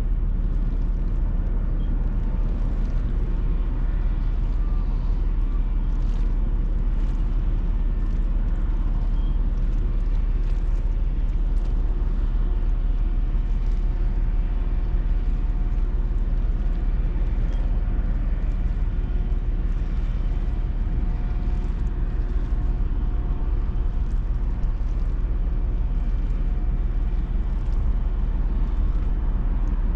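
Steady low rumble of the ro-ro passenger ferry Blue Grace's machinery, unchanging throughout.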